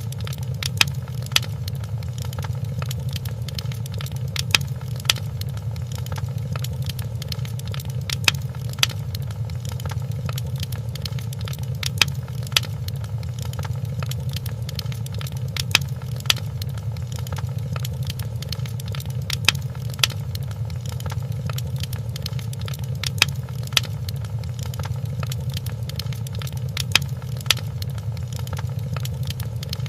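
Wood fire crackling in a fireplace: irregular sharp pops and snaps, with a louder pop every few seconds, over a steady low rumble of the flames.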